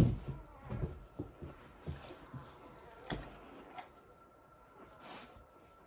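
Handling noises around newborn puppies: a sharp knock at the very start, then scattered faint taps and rustles.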